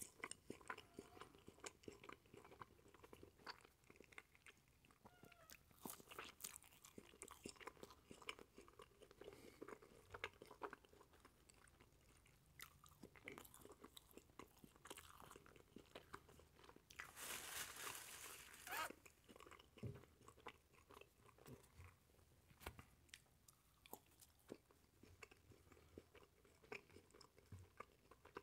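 Quiet, close-miked chewing of burnt marshmallows: soft, sticky mouth sounds with many small clicks. A louder rustling noise about two-thirds of the way through lasts a couple of seconds.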